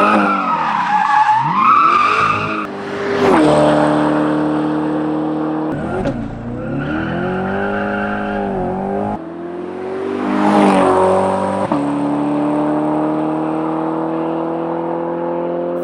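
Chevrolet C8 Corvette's V8 through a titanium catback exhaust, in several short clips cut together: revs and passes whose pitch swoops up and down. It ends in a long, steady rise in pitch as the car accelerates.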